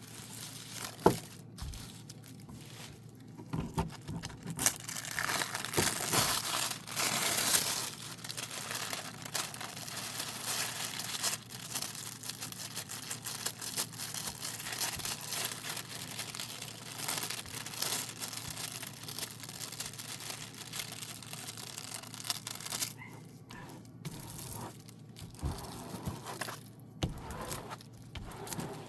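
Plastic cover sheet being handled and peeled off the tacky adhesive of a diamond painting canvas: a long stretch of crinkling, tearing rustle, thickest through the middle, with scattered clicks and handling noises before and after.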